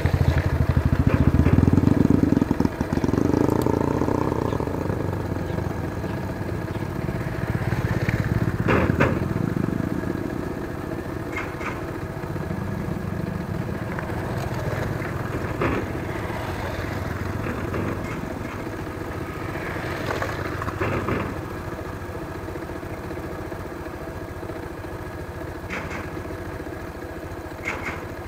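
Bajaj Pulsar 220F's single-cylinder engine running steadily as the motorcycle is ridden, with occasional knocks and rattles. It is loudest in the first few seconds.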